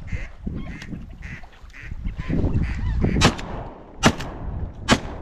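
Geese honking again and again, then three shotgun shots a little under a second apart in the second half.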